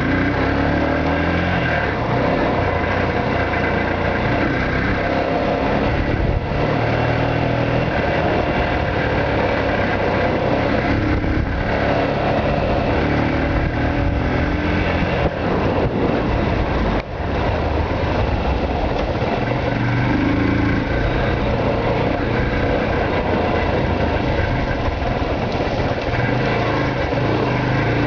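A Yamaha YBR motorcycle's single-cylinder four-stroke engine running steadily while riding, its note rising and falling a little, with a brief drop in loudness about two-thirds of the way through.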